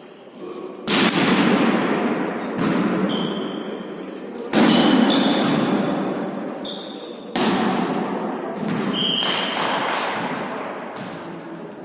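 Volleyball being hit and bouncing in a large echoing hall: about five sharp smacks roughly two seconds apart, each ringing on with a long reverberant tail, with short high squeaks between them.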